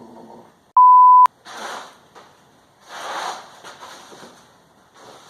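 A steady, high, pure-toned bleep lasting about half a second, about a second in, of the kind dubbed over a word in editing. It is the loudest sound here, and short breathy voice-like bursts follow it.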